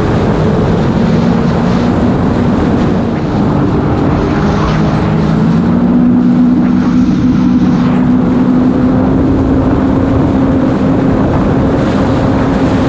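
Personal watercraft engine running at high, steady throttle with a noise of wind and spray; the pitch climbs a little about five seconds in and then holds.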